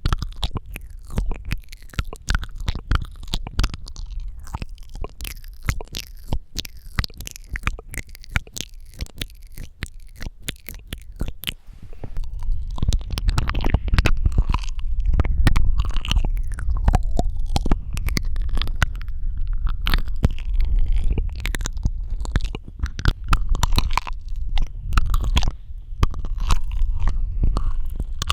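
Close-miked ASMR mouth sounds: rapid wet clicks and smacks of tongue and lips. About twelve seconds in they get louder and fuller, over a low rumble.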